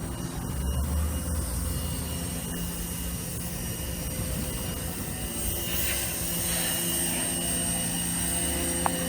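Mitsubishi Canter's 4.2-litre four-cylinder diesel engine running steadily, with a short hiss about six seconds in and a sharp click near the end.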